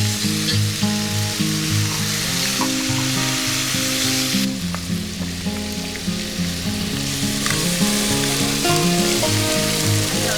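Food sizzling as it fries in a pan, a steady hiss that thins for a few seconds in the middle, under background music with a run of changing notes.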